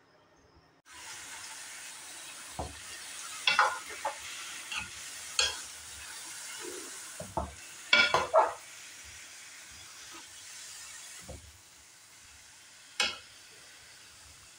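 Pumpkin cubes and meat frying with a steady sizzle in a metal pot, starting about a second in, while a spoon stirs them and knocks and scrapes against the pot a dozen or so times.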